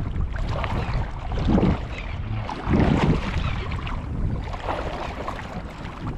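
Wind rumbling on the microphone over shallow lagoon water, with two louder swishes and splashes of water about one and a half and three seconds in, as from wading through the shallows.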